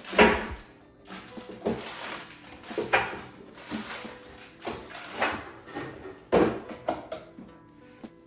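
Household items and containers clattering and knocking as they are handled and set down, about one sharp knock a second, a few with a short ringing tail.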